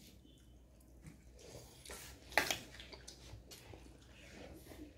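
Quiet chewing of a bite of chicken sausage, with soft mouth clicks and one sharp click a little over two seconds in.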